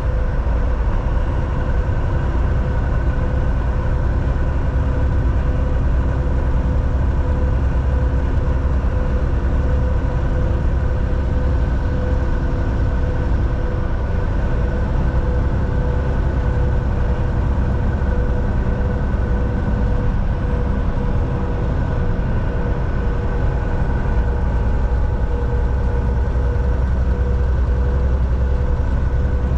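Volvo VNL 760 semi-truck cruising at a steady speed, heard from inside the cab: a deep, even engine and drivetrain drone with a steady hum over road rumble, holding its pitch with no shifting or revving.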